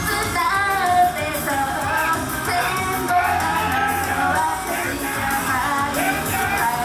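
Female idol group singing live over a pop backing track.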